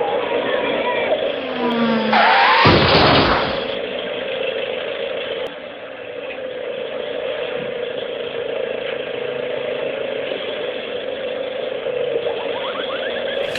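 A steady engine-like drone, with a loud rushing burst about two and a half seconds in that lasts about a second.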